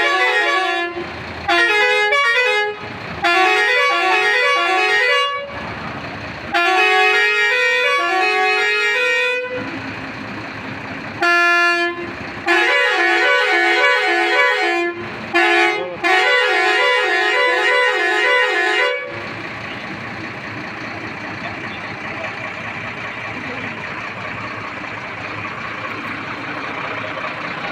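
Truck's musical pressure horn playing a stepping multi-note tune in several phrases of one to three seconds each, with short pauses between. About 19 seconds in the horn stops and only a steady noise remains.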